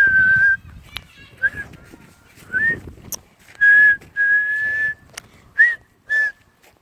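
A person whistling a string of breathy notes, mostly at the same pitch. Some notes are short and some held for most of a second, with a few sharp clicks in between.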